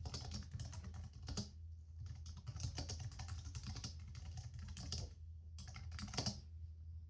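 Typing on a computer keyboard: quick runs of clicking keystrokes, a few struck harder, with a short pause about five seconds in, over a steady low hum.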